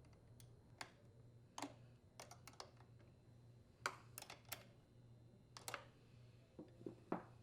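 Faint, scattered light clicks and taps, irregular and about a dozen in all, of a small tool working the throttle cable's locking nut on a leaf blower as it is tightened.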